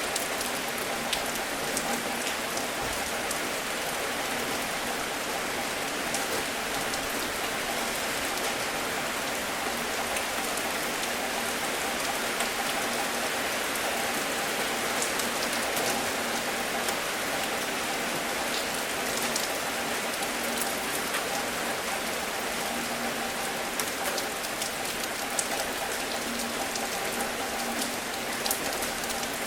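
Steady rain falling, a continuous even hiss with scattered ticks of individual drops hitting a surface.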